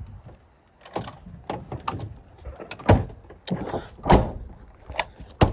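A string of irregular knocks and rustles, about eight in five seconds, the loudest near the middle and near the end: handling and movement of gear and tent fabric while settling into a tent.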